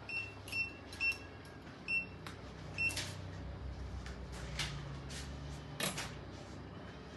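Short high electronic beeps, about half a second apart in the first three seconds, then stopping. Several sharp clicks follow, over a low hum.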